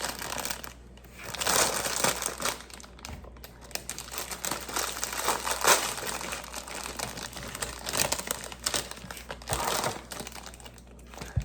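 Crinkly plastic bag being handled and pulled open, an irregular run of crinkling with several louder bursts.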